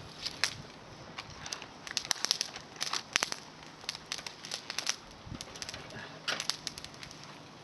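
Small fire of climbing-rose twigs crackling, with irregular sharp pops and snaps.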